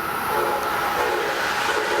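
Amtrak Northeast Regional passenger train running through the station at speed, a loud steady rush of wheels and rail noise.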